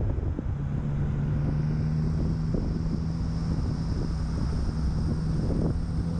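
Car engine running at a steady low note at low speed, the pitch stepping up slightly about two and a half seconds in, with wind rumbling on the microphone.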